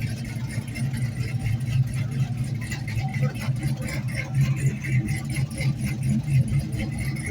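Classic muscle car engine idling: a steady low rumble with an uneven pulse.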